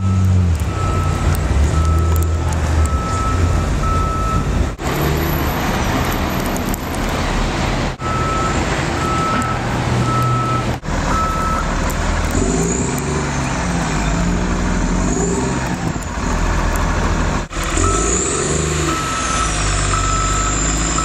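A heavy vehicle's engine running while its backup alarm beeps about once every three-quarters of a second, in several runs with pauses between. A high whine that rises and falls comes in during the second half, over a steady noise haze.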